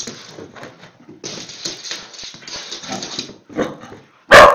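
A dog scrabbling and shuffling about on a carpet, making irregular rustling noise, then one loud bark near the end.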